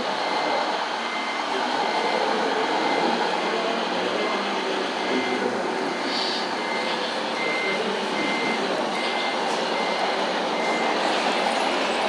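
Truck reversing alarm beeping steadily at one high pitch, a little over two beeps a second, over a steady background of mixed noise.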